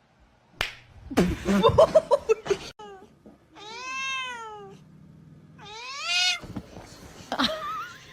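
A cat meowing: two long drawn-out meows in the middle, the first rising and falling in pitch, the second rising, after a run of short knocks and scuffling sounds.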